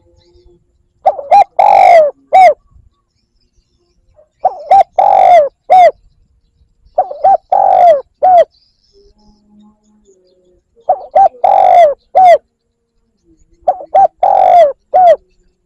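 Spotted dove cooing: five phrases a few seconds apart, each of two short notes, a long note and a short closing note. It is a decoy call used to draw wild doves in.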